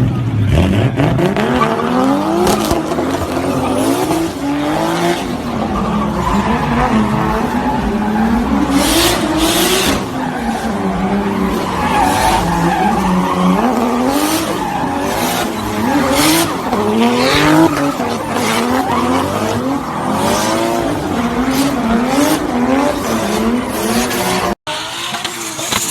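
Turbocharged car engine revving up and down again and again, with frequent sharp pops and bangs from the exhaust of the kind anti-lag and 2-step launch control make. Near the end it cuts suddenly to another car.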